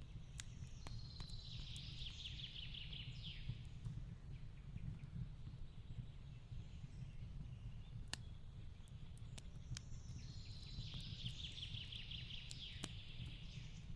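Fireplace crackling with scattered sharp pops over a low steady rumble. A songbird sings a fast trilling phrase that ends in a quick downward sweep, once about half a second in and again around ten seconds in.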